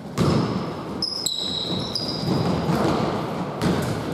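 Basketball play in a hall: shoes squeaking sharply on the court, several short squeaks with one held for about a second, over the dull noise of players running and the ball bouncing.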